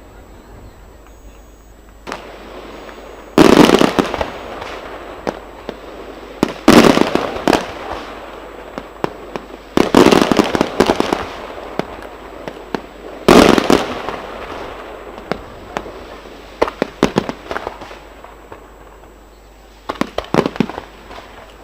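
Aerial fireworks shells bursting: four loud booms about three seconds apart, each trailing off into crackling, then smaller crackling bursts near the end.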